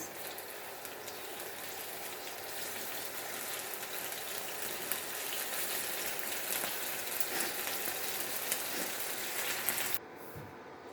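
Chicken fillets sizzling steadily as they fry in a hot pan, with a busy crackle of spitting oil; the sizzle cuts off abruptly about ten seconds in.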